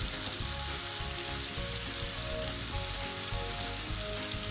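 Marinated chicken leg pieces sizzling steadily in butter and oil in a grill pan.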